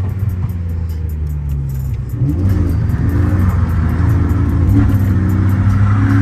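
BMW M54B25 inline-six fitted with an N54 intake manifold, revving, growing louder about two seconds in, with background music playing along.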